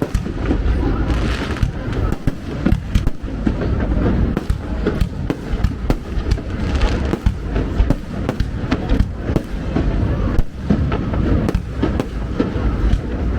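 Aerial fireworks display going off: a rapid run of booming shell bursts, with spells of crackling from glitter shells about a second and a half in and again around seven seconds in.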